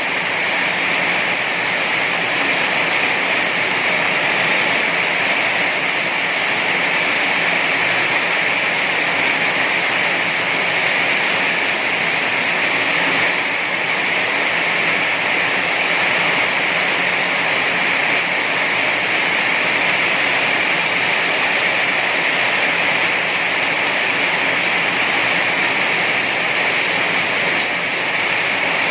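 Heavy rain pouring in a steady, even hiss.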